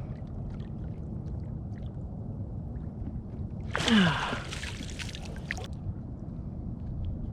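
Water splashing and small knocks at the side of a kayak as a hooked redfish is brought in, with a short falling grunt-like exclamation about four seconds in.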